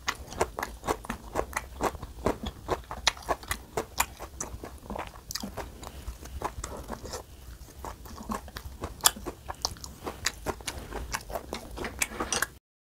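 Close-miked chewing of crisp raw vegetables in red pepper paste, with crunching and wet mouth clicks. The sound stops abruptly just before the end.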